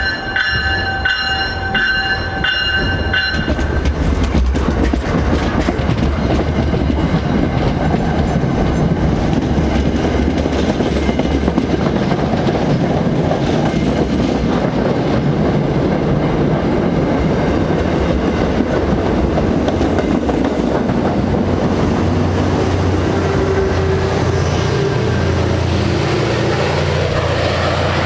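MBTA push-pull commuter train passing close by at speed, its wheels rumbling and clattering over the rails. A bell rings about twice a second for the first few seconds. Near the end the diesel locomotive pushing at the rear goes by and its engine drone rises.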